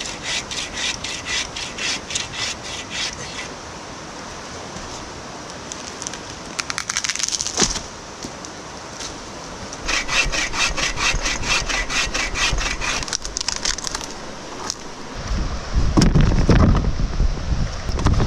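Hand saw cutting through wood in two spells of quick, even strokes, about four a second, with a single sharp crack about seven and a half seconds in. Heavy low rumbling noise takes over near the end.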